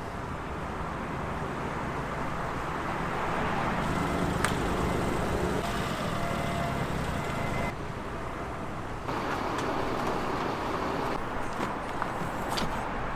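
City street ambience: steady traffic noise with the general bustle of a busy street.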